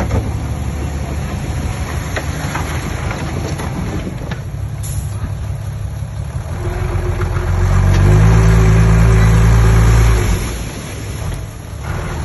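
Heavy diesel engine of earthmoving machinery running, then revving up about seven seconds in to a louder, steady note that holds for about two seconds before dropping back.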